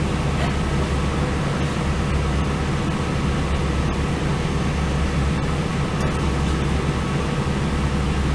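Northern Ireland Railways diesel train running along the line: a steady low rumble of engine and running noise, with a couple of faint clicks.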